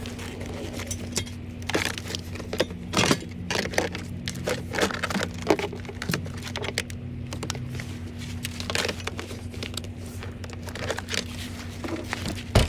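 Irregular clicks, rattles and crinkling of hands working in a car's fuse box, pulling and checking fuses, over a steady low hum.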